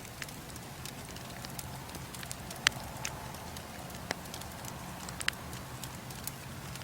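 Bonfire crackling: wood burning with irregular sharp pops, the loudest about two and a half seconds in, over a steady low rumble.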